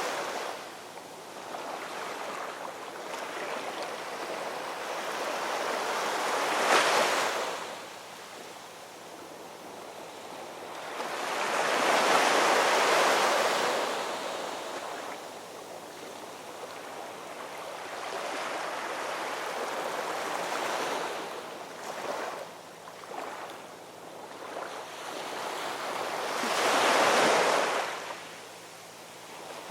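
Ocean waves breaking and washing up on the shore in slow surges: a sharp crash about seven seconds in, a long broad wash around twelve seconds, and another swell near the end, with quieter hissing backwash between.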